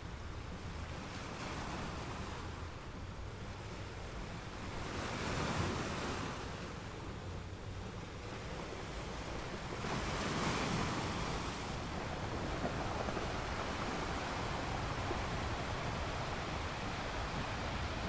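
Ocean waves washing in a steady hiss of surf, swelling about five seconds in and again at about ten seconds, after which it stays fuller.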